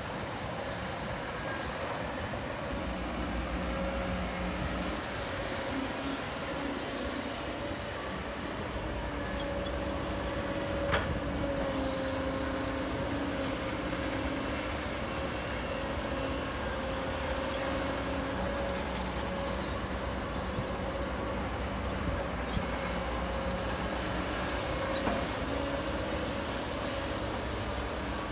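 Heavy earthmoving machinery's diesel engine running steadily with a constant whine, with a single sharp clank about eleven seconds in.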